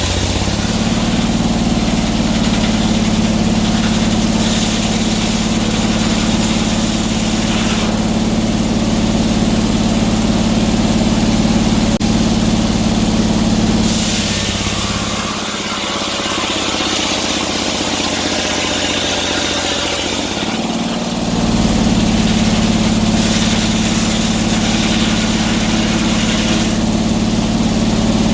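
Sawmill engine running steadily while milling oak. About halfway through, its low hum changes for several seconds and a higher hiss comes up, then the engine returns to its earlier note.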